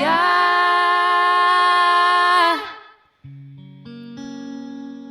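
A song: one long sung note, sliding up into pitch at the start and held steady, fades away after about two and a half seconds. After a brief gap, guitar notes pick up again.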